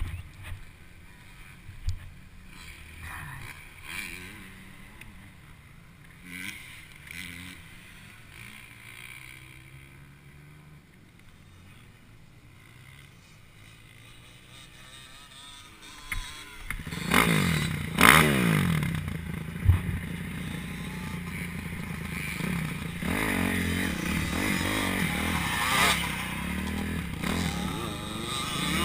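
Motocross motorcycle engine, faint and low for the first half. From about halfway it runs loud, revving up and down, with a couple of sharp knocks.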